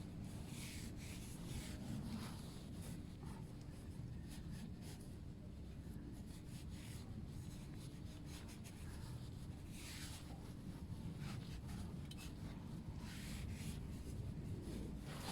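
Faint, uneven rubbing strokes of a cloth wiping down a stainless motorcycle exhaust pipe after cleaning.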